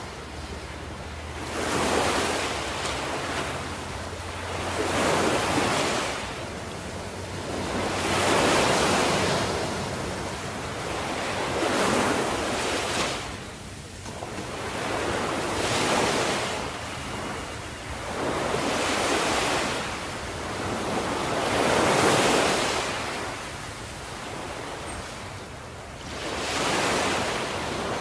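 Ocean waves breaking and washing up on the shore, swelling and falling away in a surge every three to four seconds.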